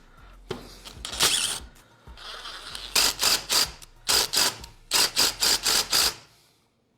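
3/8-inch socket ratchet clicking in quick runs of strokes, about five a second, as bolts holding a small engine's recoil starter are loosened.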